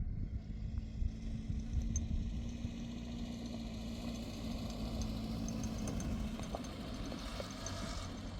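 An engine running steadily at low speed, a low rumble with a steady hum.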